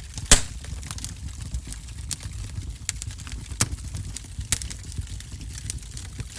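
Wood fire crackling in a fireplace: irregular sharp pops and snaps over a low steady rumble, the loudest pop about a third of a second in.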